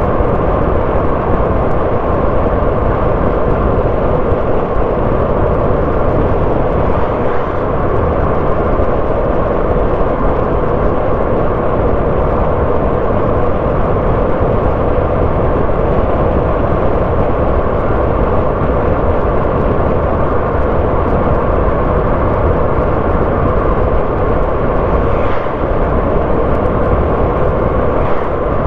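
Car driving along a road at a steady pace: a continuous, even rush of engine, tyre and road noise with no breaks.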